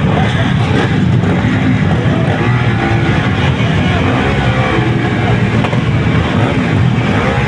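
Motocross dirt bike engines running and revving, a dense steady engine noise with pitch rising and falling.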